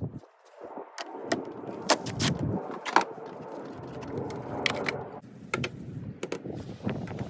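Irregular sharp clicks and clinks over a steady low noise, consistent with mechanical work.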